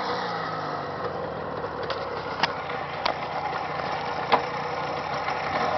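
Jawa 638 two-stroke twin motorcycle engine idling steadily, with a few short sharp clicks about two, two and a half, three and four seconds in.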